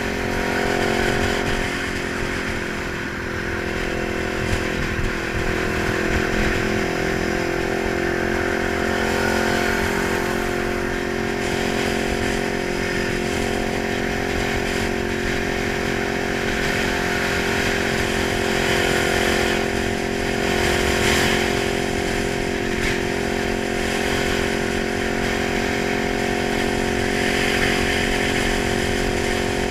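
Kawasaki 900 motorcycle engine running steadily at a nearly constant speed, its pitch drifting only slightly.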